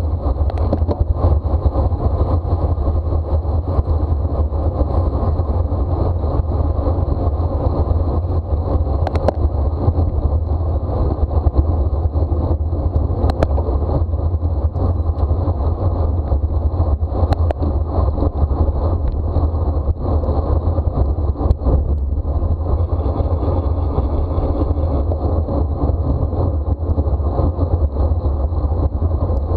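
Wind rushing over the microphone of a bicycle racing at speed, a steady low rumble, with a few sharp clicks.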